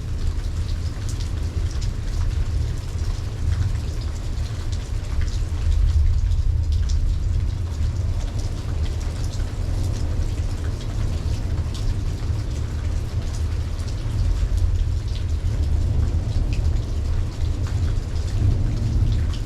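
Steady rain falling during a night thunderstorm, with the ticks of individual drops striking close by over a continuous low rumble.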